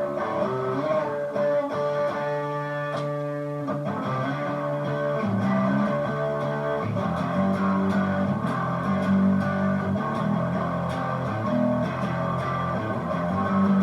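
Strat-copy electric guitar played through a distortion pedal into a Hotone mini amp head and Vox BC108 cab. It rings out held chords for about four seconds, then moves to lower, busier riffing notes.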